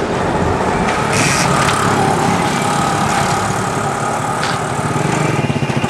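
Hero Honda motorcycle's single-cylinder four-stroke engine running steadily at low speed as the bike pulls away.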